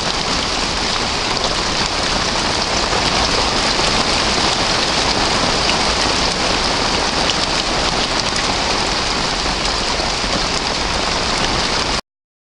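Heavy rain bouncing off a shed and the ground, a dense steady hiss that cuts off suddenly near the end.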